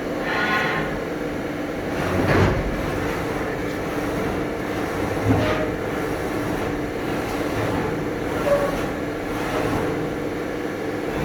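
Steady mechanical rumble with a faint hum, broken by a few short knocks about two, five and eight and a half seconds in.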